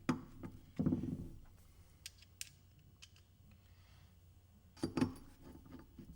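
Small metal hardware clicking and knocking as screws are handled and set in place by hand on a cart's wheel assembly. There are a few sharp clicks, the loudest about a second in and again about five seconds in.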